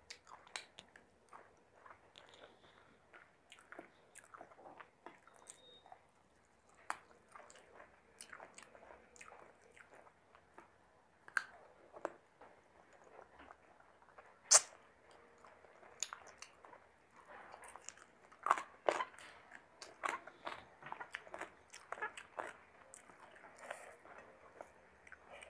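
Close-miked chewing and mouth sounds of a person eating chicken biryani by hand, with many small clicks and smacks; one sharp click about halfway through is the loudest.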